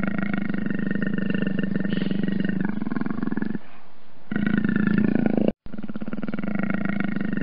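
Leopard growling: a low, continuous rumble made of rapid pulses. It breaks off for under a second about three and a half seconds in, comes back louder, then cuts out abruptly for an instant and resumes.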